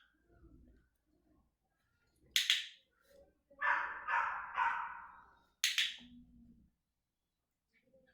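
A training clicker clicks twice, about two and a half and five and a half seconds in. Between the clicks a young Australian Shepherd puppy gives three short yelps, and a brief low whine follows the second click.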